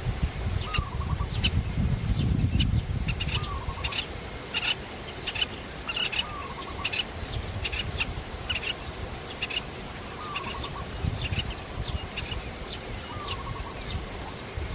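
Wild birds chirping: many short, high chirps, with a lower, downward-sliding call repeated about every two to three seconds. A low rumble sits underneath, strongest about two seconds in.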